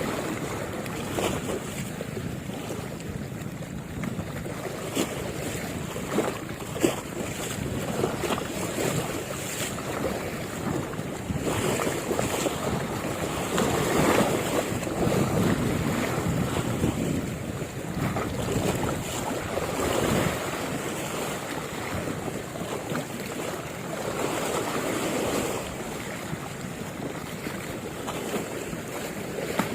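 Sea water washing and lapping, with wind buffeting the microphone; the water noise swells and eases every few seconds.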